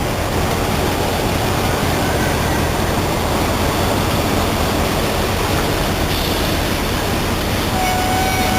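Steady running noise of a loaded cement tanker truck's engine and cab as it manoeuvres through a tight turn, an even rumble with no gear changes or sudden sounds.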